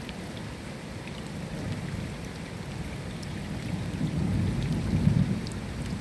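Steady rain with scattered close drop ticks, and a low thunder rumble that builds through the second half.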